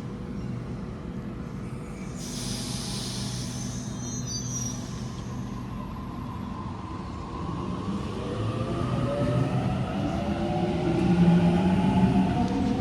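Electric suburban train: a hiss about two seconds in lasts a couple of seconds, then the traction motors whine, rising in pitch and growing louder toward the end.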